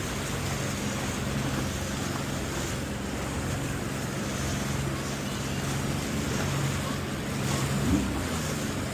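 Jet ski engine running at a steady pitch, with wind and water noise around it.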